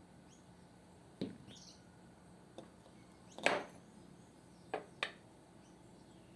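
A few sharp knocks and clacks of objects being handled, the loudest about midway and two close together near the end, over faint bird chirps.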